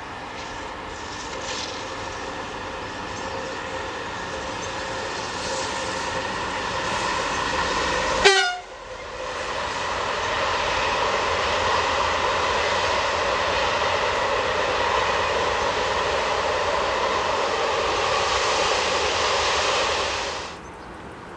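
BB 26000 electric locomotive hauling a train of passenger coaches past: steady rolling noise with a few high steady tones. A sudden sharp burst comes about eight seconds in, then the coaches' rolling noise is louder and steady until it cuts off suddenly near the end.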